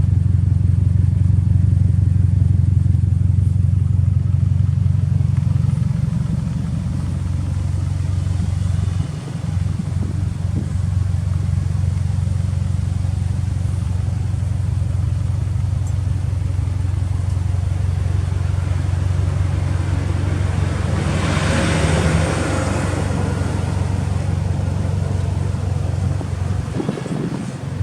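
Subaru Impreza WRX STI's turbocharged flat-four engine idling steadily through an aftermarket titanium muffler. A brief rushing hiss rises and fades about three quarters of the way through.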